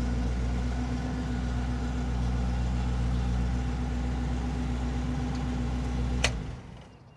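Carbureted car engine idling steadily. About six seconds in there is a sharp click, and the engine winds down and stops within about half a second.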